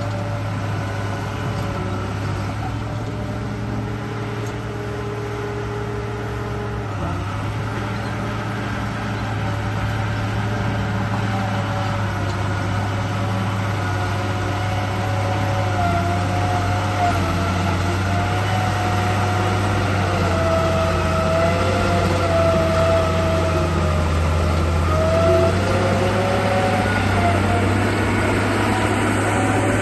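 Radio-controlled bulldozer running: a steady low engine-like hum, joined from about halfway through by higher whines that waver up and down in pitch as it works. It grows gradually louder toward the end.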